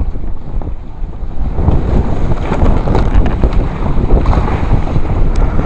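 Wind buffeting the microphone aboard a sailboat under sail, a loud uneven rumble, with water rushing past the hull.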